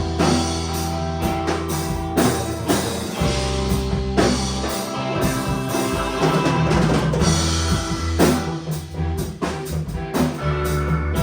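Rock band playing an instrumental passage: a drum kit keeping the beat over a bass line and guitar.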